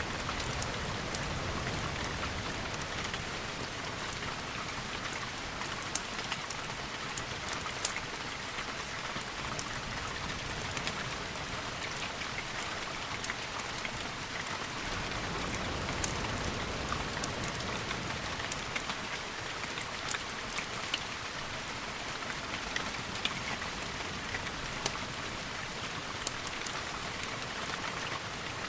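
Steady rain with scattered sharp ticks throughout, and a low rumbling swell about halfway through.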